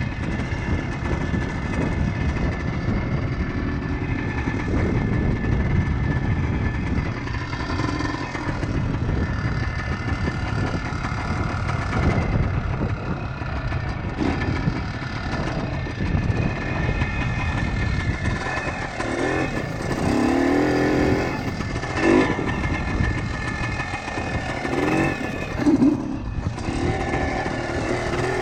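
1976 Kawasaki KT250 two-stroke single-cylinder trials bike engine running steadily under way. The engine note swells and rises in several short revs about two-thirds of the way through and again near the end.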